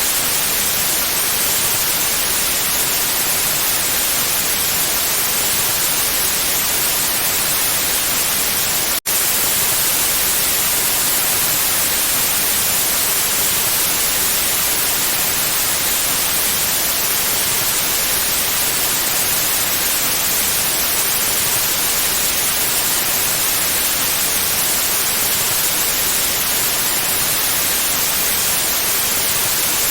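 Steady, loud white noise, an even hiss with most of its weight in the upper range. It cuts out for a split second about nine seconds in, then resumes unchanged.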